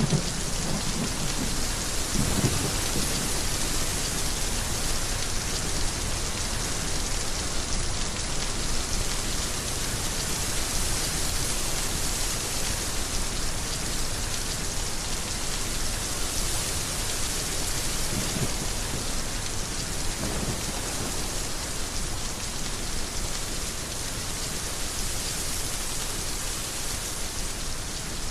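Heavy rain falling steadily, a dense even hiss, with brief low rumbles in the first few seconds and again about two-thirds of the way through.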